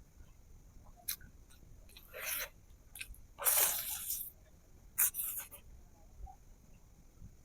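Close-miked eating sounds: mouth noises and chewing of fish, rice and green chilli, with a few short sharp clicks and two longer hissing noises about two and three and a half seconds in.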